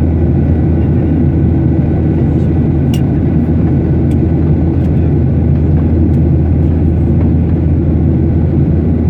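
Steady cabin noise of a Boeing 737-800 in flight: its CFM56-7B engines and the airflow make a loud, even low drone with a faint high steady whine, and there is a light click about three seconds in.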